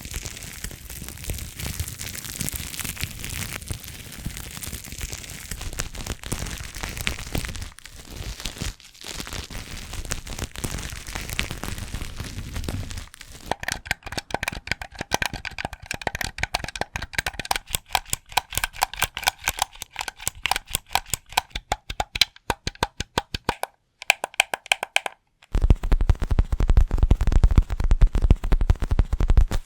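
Close-miked ASMR trigger sounds: dense crackling for about the first half, then rapid fingertip-style tapping on an object that rings with a few tones, then, after a short pause near the end, heavier and deeper rapid tapping or scratching.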